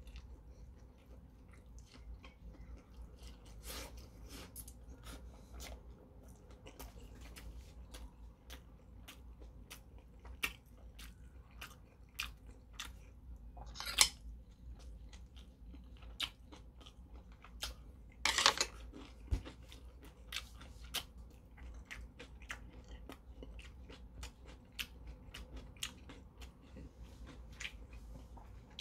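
A person chewing steamed dumplings close to the microphone: many small wet mouth clicks and smacks throughout, with a couple of louder, sharper noises about halfway through.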